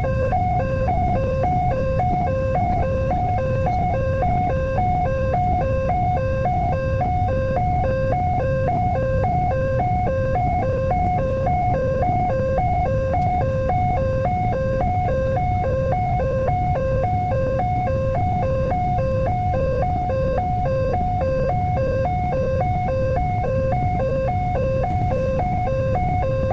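Railway level-crossing warning alarm sounding continuously: two electronic tones, one low and one higher, alternating about one and a half times a second. A steady low rumble runs underneath.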